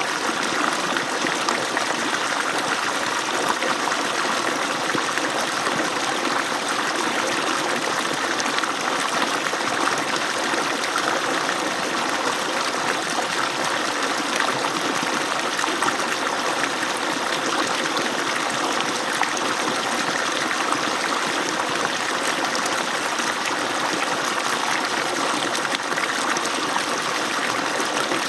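Water falling steadily from an agricultural pump's outlet, a continuous even rush of water with no change.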